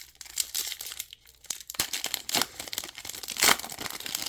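Trading cards and their pack being handled: irregular rustling and crinkling, loudest about three and a half seconds in.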